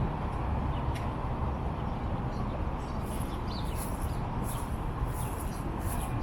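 Birds chirping in short, high calls, coming in quick succession through the second half, over a steady low rumble.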